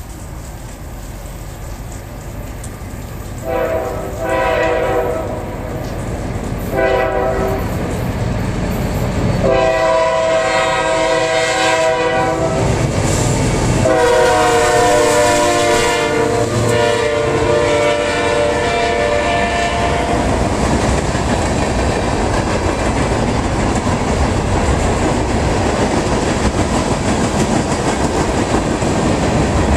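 Diesel freight locomotive's multi-tone horn sounding four blasts as it approaches, the first two short and the last two long, the final one held as the locomotive passes. After that, the steady rumble and clatter of freight cars rolling past.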